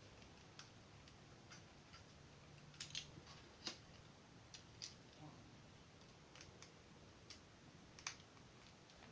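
Faint, sparse clicks and ticks of small plastic parts being handled and screws being driven into a plastic toy train's shell with a small screwdriver.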